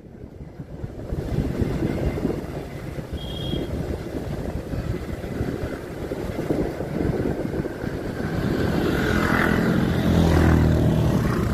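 Motorcycle engine running while riding, with rumbling road and wind noise; it grows louder and its engine note comes through more clearly over the last few seconds. A brief high tone sounds about three seconds in.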